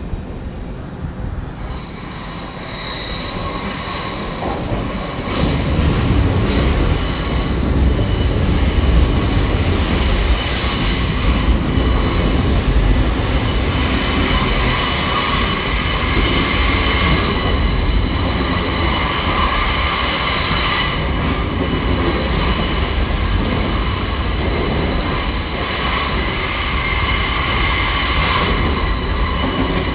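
Nine-coach Intercity Express Train pulling into a terminus platform, its wheels squealing with several steady high whines over a low rumble. It grows louder over the first few seconds and then stays loud.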